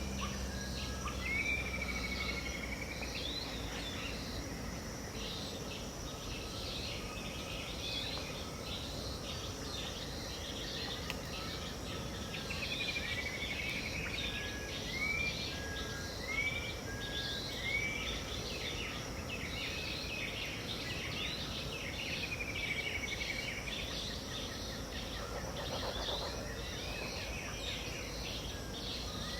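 Dawn chorus of many wild birds in the Pantanal wetland, calling and overlapping over a steady background hiss. One bird repeats short arched whistled notes several times in a row around the middle.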